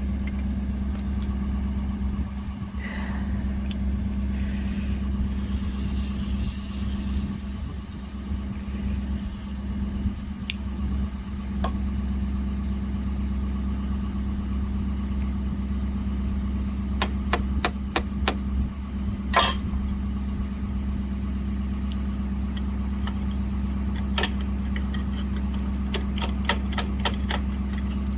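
Engine idling steadily with a low, even hum. Sharp metal clicks and taps come in two clusters, one past the middle and another near the end, as fifth-wheel parts are knocked and handled.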